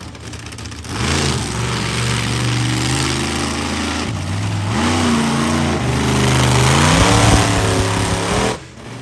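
Monster truck engine revving hard: its pitch falls and climbs in several surges, reaches its loudest near the end, then drops off abruptly.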